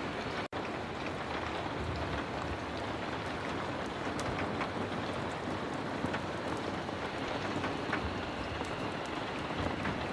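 Heavy rain falling steadily, with scattered sharp drop ticks through the hiss. The sound cuts out for an instant about half a second in.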